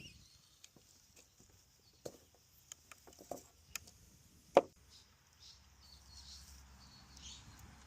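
A few light wooden clicks and knocks from handling a homemade counterweight trebuchet, then one much louder sharp knock about four and a half seconds in. Birds chirp faintly throughout.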